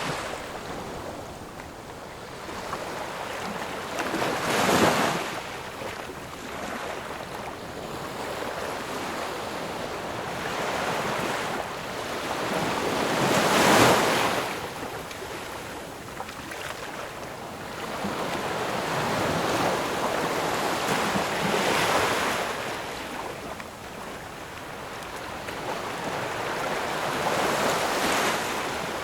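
Sea waves breaking on a shore: four swells of surf, roughly eight seconds apart, the loudest about halfway through, with a steady wash of water between them.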